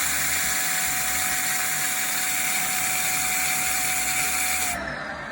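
Shark vacuum cleaner running with a loud rush of air and a steady high whine. Near the end it is switched off and the whine drops in pitch as the motor winds down. The loud, higher-pitched suction sound is the one the owner links to loss of suction from a jam.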